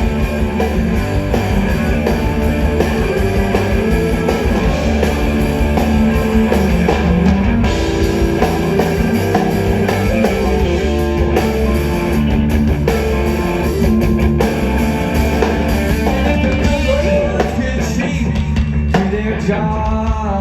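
Live rock band playing an instrumental passage at concert volume: electric guitars, bass and drum kit, with a voice coming in near the end.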